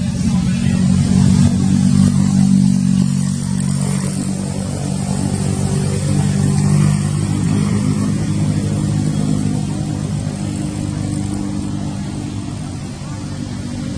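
A motor vehicle's engine running steadily, loudest in the first few seconds and slowly fading.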